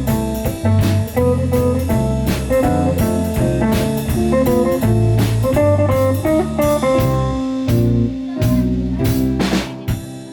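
Small jazz-blues band playing: a guitar plucking a melodic line over bass guitar and drum kit. The playing stops near the end.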